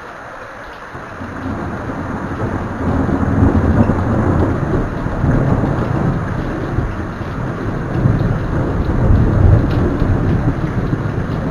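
Steady rain hiss, then a long roll of thunder that builds about a second in and rumbles in several deep swells before cutting off suddenly at the end.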